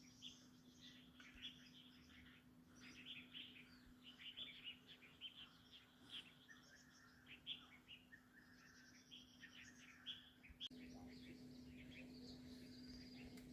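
Faint, scattered bird chirps over a steady low hum, which gets louder about three-quarters of the way through.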